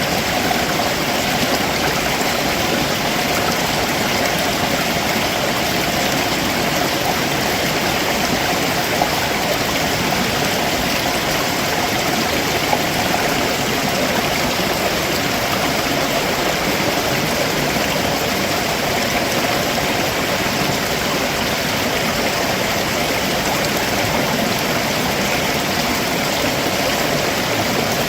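Stream water running over rocks below a waterfall: a steady, loud rushing with gurgling, unchanging throughout.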